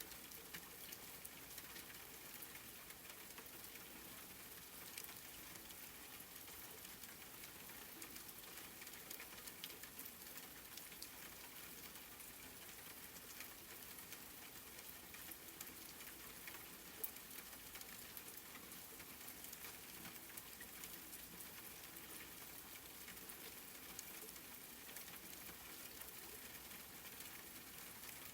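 Soft, steady rain: a fine, even hiss of many small drop ticks, with now and then a single louder drop.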